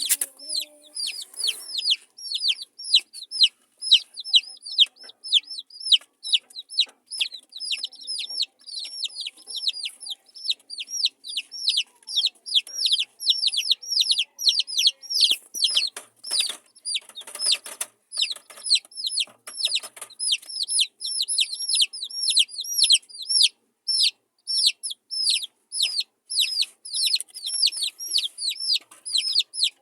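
Baby chicks peeping nonstop: quick, high, downward-sliding peeps from several birds, several a second. A few soft knocks or rustles come about halfway through.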